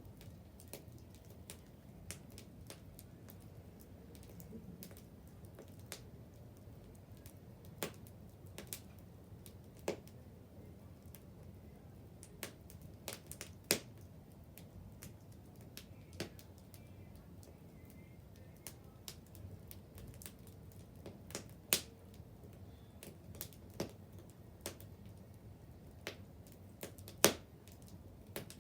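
Wood bonfire crackling: irregular sharp pops and snaps over a faint low rumble, with the loudest snap near the end.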